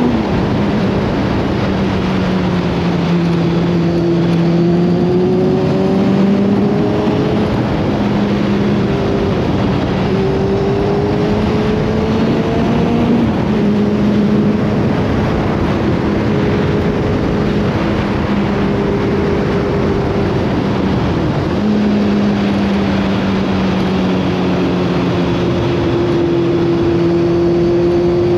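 Motorcycle engine heard from the bike while riding, its revs climbing and then dropping several times as it goes through the gears, under a heavy rush of wind on the microphone.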